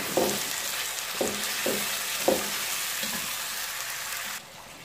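Chicken pieces sizzling in hot oil in a pan while a slotted spatula stirs them, scraping against the pan several times. The sizzle drops away abruptly near the end.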